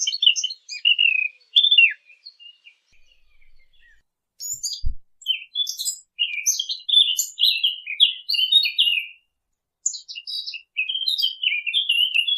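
Songbird song, the 'fig bird' (عصفور التين) call used as a hunting lure: fast, jumbled warbling phrases, with a quieter stretch about a third of the way in and a single low thump about 5 seconds in.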